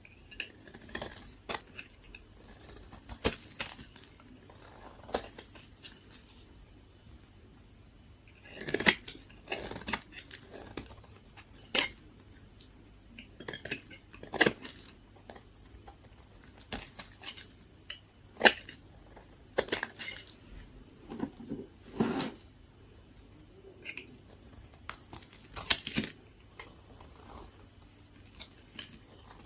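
A blade cutting into very dry soap: irregular sharp cracks and crunches, with short scraping hisses between them.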